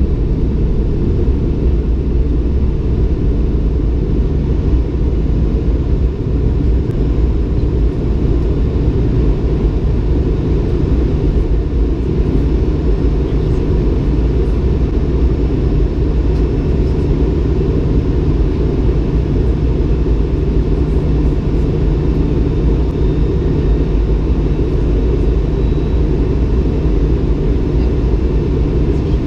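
Cabin noise of a Bombardier CS300 (Airbus A220-300) during takeoff, heard from inside the cabin: its Pratt & Whitney PW1500G geared turbofans at high power and the rush of air make a loud, steady, low rumble.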